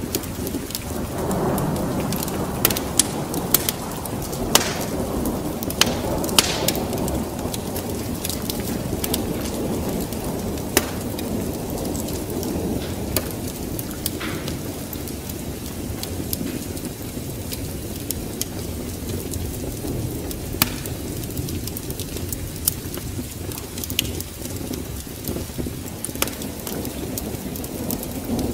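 A wood fire crackling, with scattered sharp pops, over a steady bed of rain and a low rumble of thunder that swells in the first few seconds.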